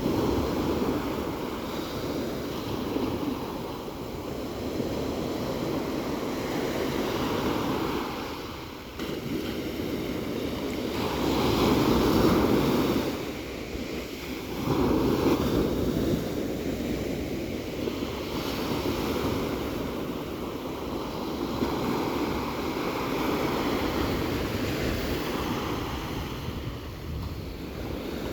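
Ocean surf: waves washing in and breaking in slow swells that rise and fall, loudest about twelve seconds in and again a few seconds later.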